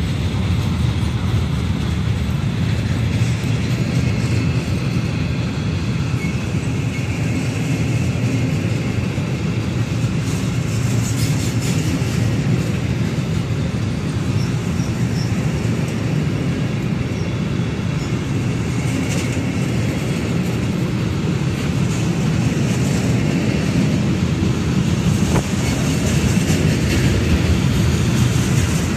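Long freight train of covered sliding-wall wagons rolling past on the track beside the platform, a steady noise of wheels on rail.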